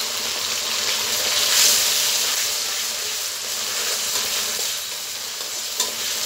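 Onion, ginger and garlic paste frying in hot oil in a metal kadai, a steady sizzle, while a steel spatula stirs and scrapes it around the pan. The sizzle swells about a second and a half in, and the spatula gives a sharp tap against the pan near the end.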